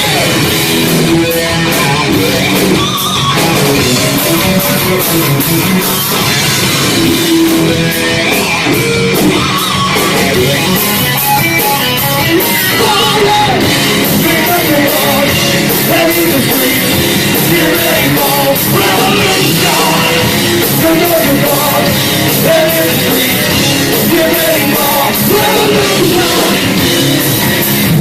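Live heavy metal band playing loud and steady: electric guitars and a drum kit, with singing.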